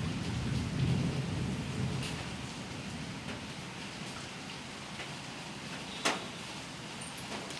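Rain falling steadily, with a low rumble of thunder dying away over the first couple of seconds. Scattered drip ticks run through the rain, with one sharp tap about six seconds in.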